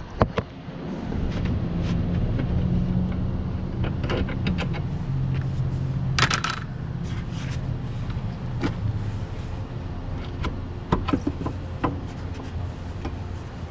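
Scattered metallic clinks and taps of tools and bolts as a car's shock absorber is unbolted, with one brief harsher scrape about six seconds in, over a steady low hum.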